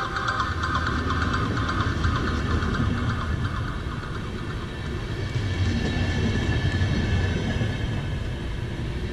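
A train of VR double-deck passenger coaches rolling past close by: a steady low rumble of wheels on the rails, easing a little in the middle and growing louder again about two-thirds of the way through.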